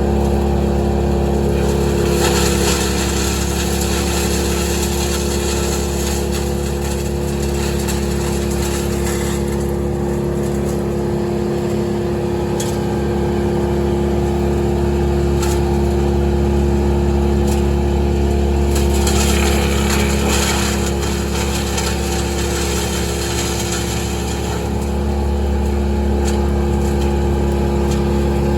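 A large engine running steadily at a constant speed. Twice, for several seconds each time, a rushing, crackling noise rises over it.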